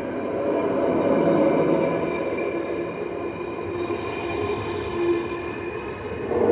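Snälltåget passenger train pulling out and rolling past, a steady rail rumble with a few steady high tones over it. It grows louder about a second in and again near the end.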